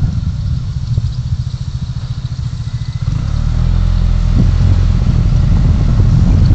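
Low rumble of a car driving on the road, picked up by a dashcam: choppy at first, then smoothing into a steady drone about three seconds in.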